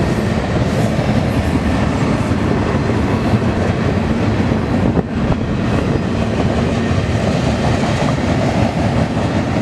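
BNSF freight train cars rolling past at close range with a steady, loud rumble of wheels on rail.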